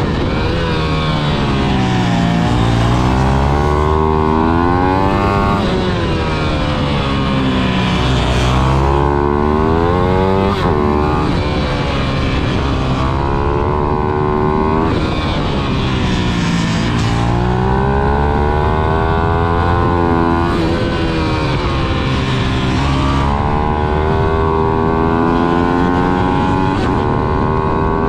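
Ayrton Superleggera pit bike's 155cc GPX single-cylinder four-stroke engine lapping a track at full throttle: the engine note climbs through the revs, drops back at gear changes and braking, then climbs again, over and over without a break.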